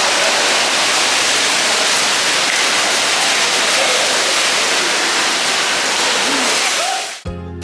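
Steady rush of splashing water, cutting off suddenly about seven seconds in, where music starts.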